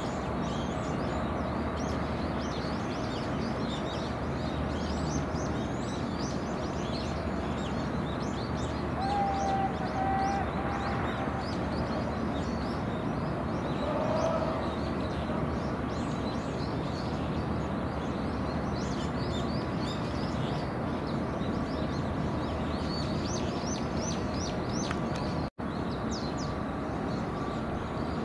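Small birds chirping and twittering in quick, high, short calls over a steady low harbour hum, with a couple of brief steady tones about a third and half of the way through.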